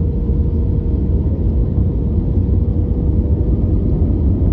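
Aircraft engine noise heard inside a plane's cabin: a steady low drone with a faint constant hum on top.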